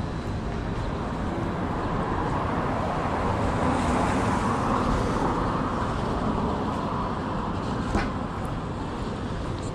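City street traffic noise: a steady hum of cars, with one vehicle passing that swells and fades midway. A single sharp click comes about eight seconds in.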